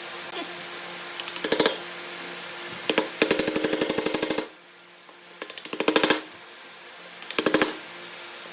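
A power tool hammering in four short bursts of rapid clicks, each burst growing louder toward its end, over a steady hum.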